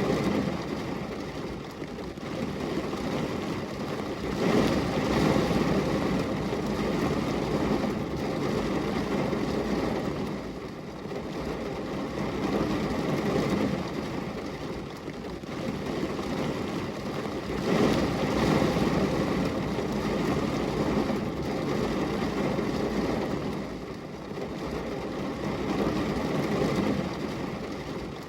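Steady rain with a low rumble, swelling heavier and easing off every several seconds.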